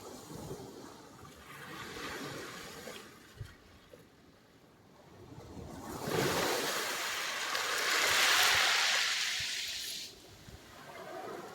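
Sea waves washing ashore: a small wave swells and fades in the first few seconds, then a bigger wave surges in about six seconds in, hisses for some four seconds and drops away sharply near the end.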